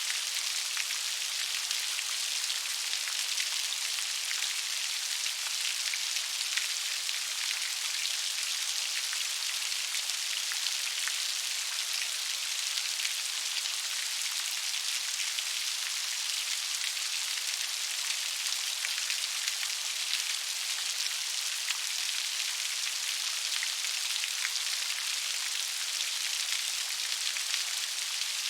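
Steady gentle rain: an even hiss of many small drops pattering, without change or thunder.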